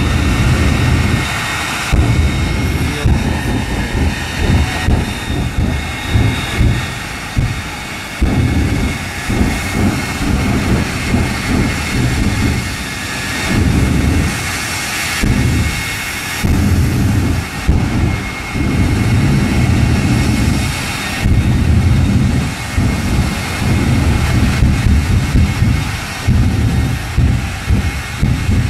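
The Shockwave jet truck's three jet engines running loud: a steady high turbine whine over a low rumble that rises and drops again and again.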